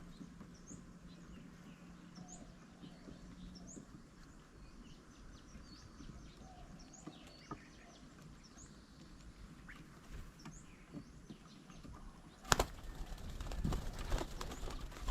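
Small birds chirping faintly, with short high calls every second or so. About twelve seconds in, a sharp knock is followed by a clatter of wing flapping and scuffling as birds come down onto the bird table.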